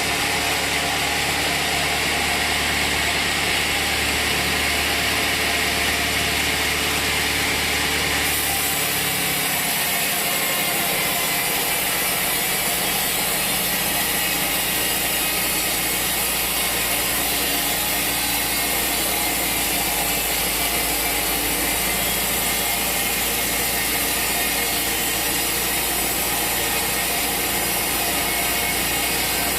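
Sawmill machinery running with a steady, dense mechanical noise that changes in tone about eight to ten seconds in.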